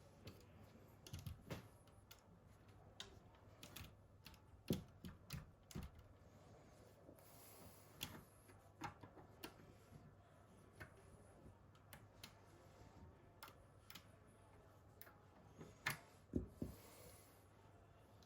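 Faint, scattered small clicks and light knocks of plastic parts and small tools being handled as a 3D-printed RC half-track model is taken apart, at irregular intervals with a short cluster of louder knocks near the end.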